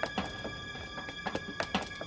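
Soft background score of steady held high tones, with a few light, irregular clicks scattered through it.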